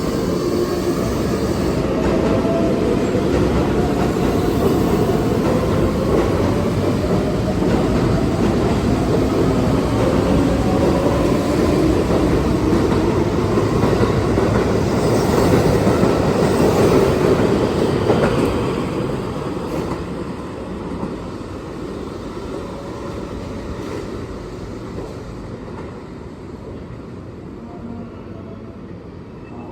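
Keihan 7000 series electric train pulling out and accelerating away, its motors whining in a rising pitch over the rumble of the wheels. The sound is loudest about two-thirds of the way through, then fades steadily as the train leaves.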